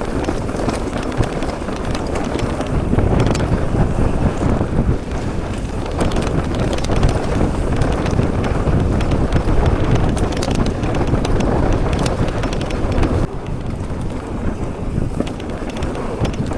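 Mountain bike riding fast down a dirt trail: wind buffeting the microphone over the rumble of the tyres and constant clicking and rattling from the bike.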